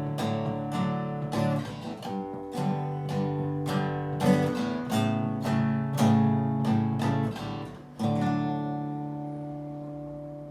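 Acoustic guitar strummed in a steady rhythm, with no singing, ending on a final chord about eight seconds in that is left to ring and slowly fade.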